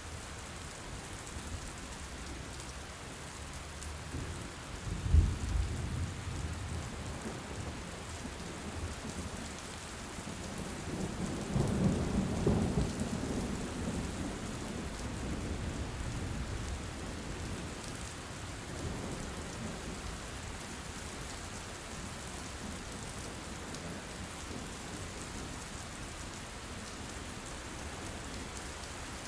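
Steady heavy rain. About five seconds in comes a sudden, loud thunder clap, and a longer rolling rumble of thunder swells and fades a few seconds later.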